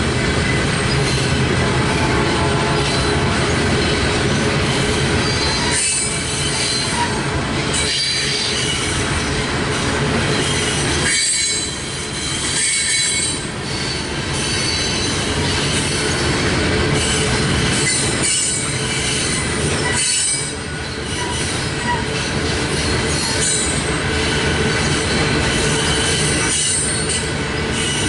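Freight train cars rolling past: a loud, steady noise of steel wheels on the rails, with short high-pitched flares of wheel squeal. The noise dips briefly every few seconds.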